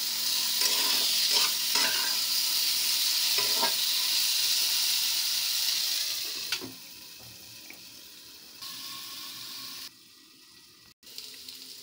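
Potato and pointed gourd pieces sizzling in oil in a kadhai while a slotted spatula stirs and scrapes them. About six and a half seconds in, a glass lid is set on the pan and the sizzle drops to a muffled, quieter hiss.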